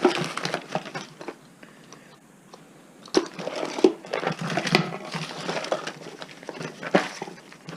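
Rummaging by hand through small household items: irregular rustling with light clicks and knocks, sparse for the first few seconds and busier from about three seconds in.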